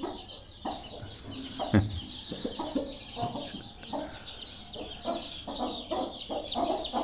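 Domestic chicks peeping in a rapid, continuous chorus, with hens clucking low underneath. The peeps go higher about four seconds in.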